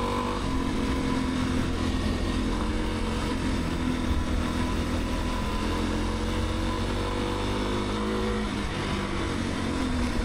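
Motorcycle engine running at a steady cruise with wind and road noise, its note easing lower near the end.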